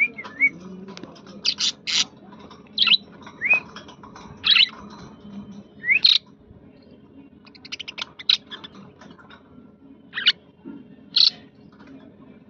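Budgerigars chirping: short sharp chirps about once a second, some sliding upward, with a quick run of rapid chatter about eight seconds in.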